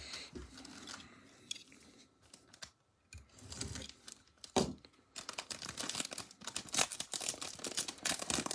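A plastic trading-card pack wrapper being torn open and crinkled by hand. It is quiet at first, with a sharp rip about four and a half seconds in, then continuous crinkling and crackling.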